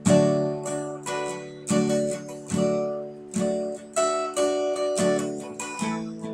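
Acoustic guitar strumming chords in an instrumental break of a song, a fresh strum a little under once a second, each left to ring out.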